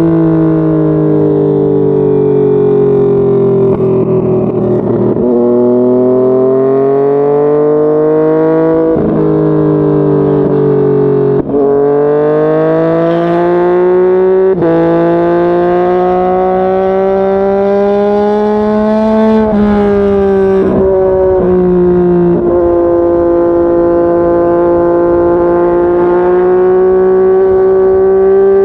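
Yamaha MT-09's inline three-cylinder engine under way. The pitch sinks at first, then climbs through the gears with three upshifts, each a sudden drop in pitch. Near the end it eases off and settles to a steady cruise.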